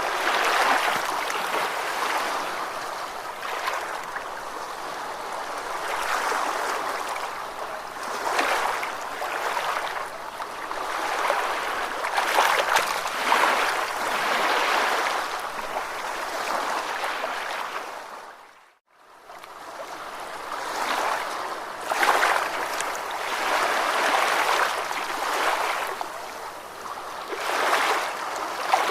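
Ocean waves washing in, with a hiss of surf that swells and eases every few seconds. About two-thirds of the way through, the sound fades briefly to silence, then returns.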